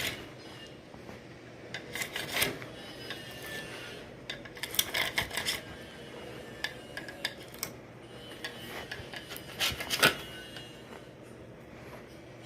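Intermittent scraping and rubbing with light clicks as old silicone is dug out of a shower door's channel, with a sharper knock about ten seconds in.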